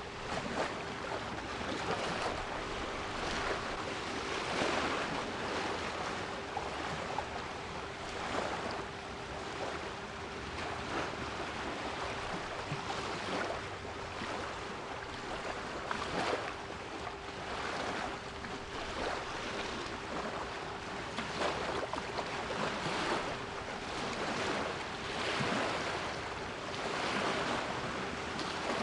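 Sea waves washing in and breaking in a steady wash of surf that swells every few seconds, with a soft 396 Hz pure tone held steady underneath.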